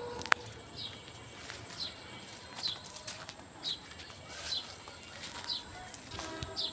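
A bird calling over and over, a short high note falling in pitch roughly once a second, over a steady high whine. There is a single sharp click about a third of a second in.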